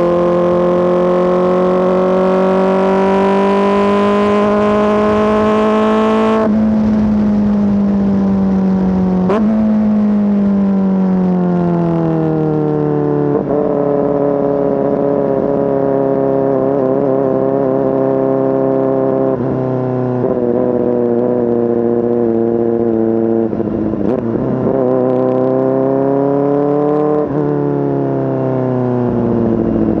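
Kawasaki ZX-4RR's 399 cc inline-four through an SC-Project S1 exhaust, its note climbing steadily for about six seconds, then cut off sharply as the throttle closes, with the pitch falling away. It then runs on at a steady pitch, broken by several brief dips and pickups in pitch.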